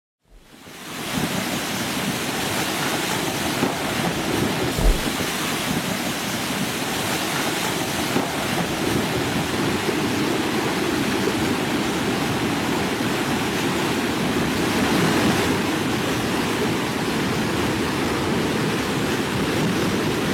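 Heavy surf and wind: a steady rush of big waves, with wind buffeting the microphone and one brief low thump about five seconds in.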